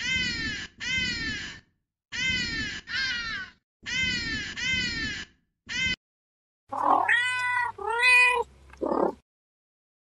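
A northern bald ibis gives about seven short, pitched calls, mostly in pairs, each rising then falling. After a short gap, a Persian cat meows: two long, drawn-out meows and then a short one.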